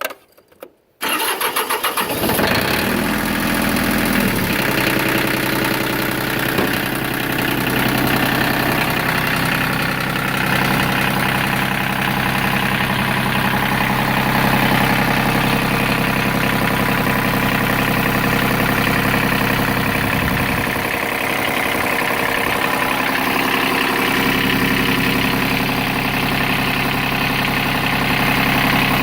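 Mitsubishi MT146D compact tractor's three-cylinder diesel engine starting about a second in, then settling into a steady idle.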